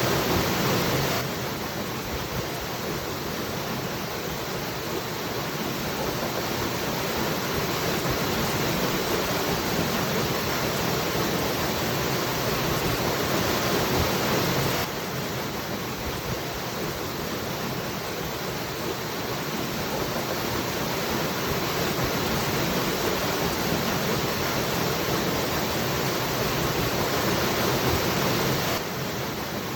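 Waterfall: a steady rush of falling water. The loudness steps down slightly three times, about a second in, midway and near the end, and then slowly builds again.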